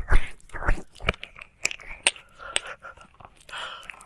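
ASMR ear-licking mouth sounds close to the microphone: wet licking and smacking with many short, irregular sharp clicks.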